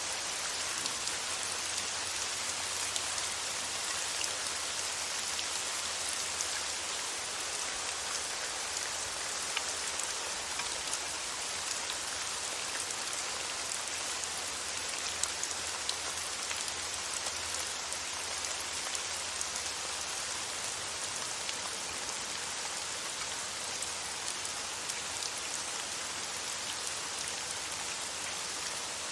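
Steady rain falling, an even hiss with many tiny droplet ticks, and a faint low hum underneath.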